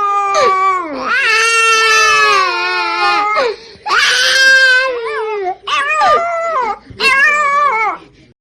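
A puppy howling and crying in a run of long, high, wavering cries, each broken off by a short pause.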